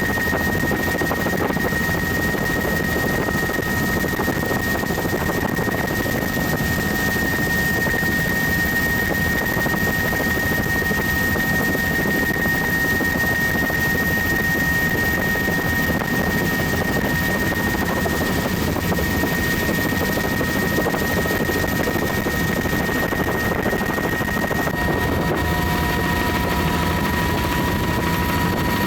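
Tour helicopter heard from inside its doors-off cabin: steady rotor and engine noise with a constant high whine, and a second, lower whine joining near the end.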